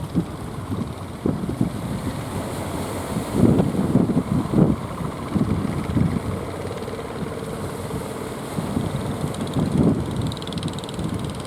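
Strong wind buffeting the microphone in irregular gusts, over the low running of a boat engine.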